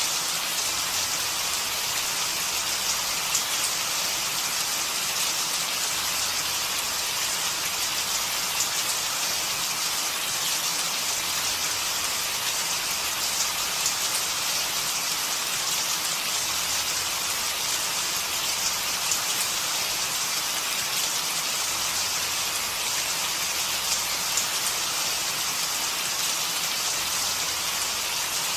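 Steady rain falling, a dense even hiss with the patter of individual drops hitting surfaces.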